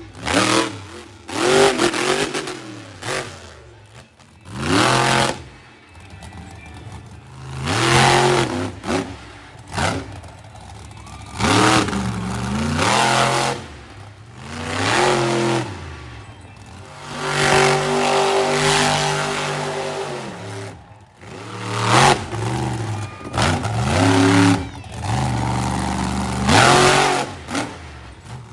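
Monster truck engines revving hard in repeated bursts, the pitch climbing and falling again every second or two. About halfway through, one engine holds at a steadier high pitch for a few seconds.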